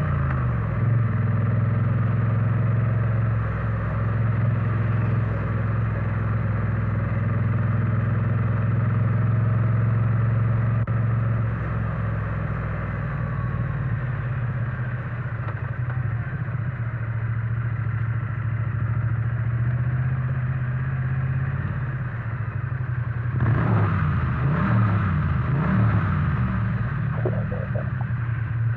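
Triumph Bonneville T100 parallel-twin engine and exhaust running under way at a steady pace, the note dropping briefly just after the start. Around three-quarters of the way through it gets louder and the pitch wavers up and down for a few seconds as the throttle is worked.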